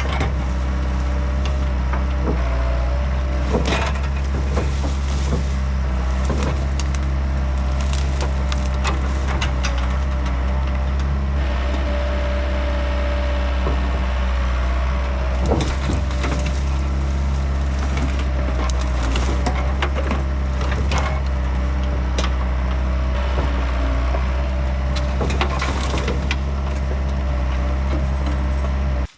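Diesel engine of a compact excavator running steadily under load while hickory wood cracks and splinters as it is crushed and broken, with many sharp snaps over the engine drone. The sound cuts off suddenly at the end.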